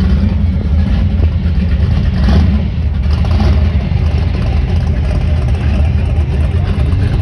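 A car engine running low and steady at a classic car cruise, with a slight swell about two seconds in.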